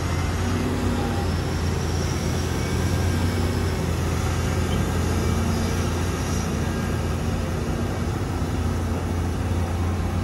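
Heavy diesel engine running steadily at a constant speed, a low even hum.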